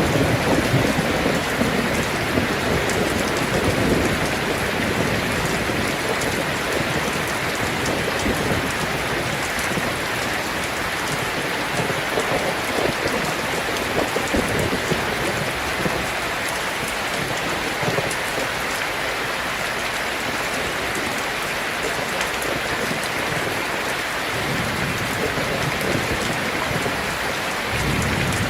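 Heavy rain falling steadily on a tin roof. A low rumble of thunder fades out in the first second or so, and another begins near the end.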